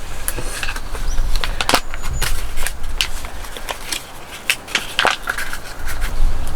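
Wood cracking and snapping: a quick, irregular run of sharp cracks and pops, over a low rumble.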